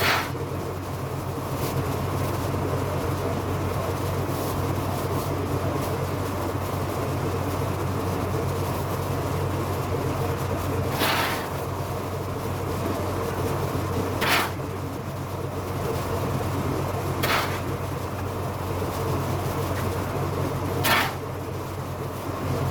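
A steady machine hum, with four short rushing noises spaced about three to four seconds apart.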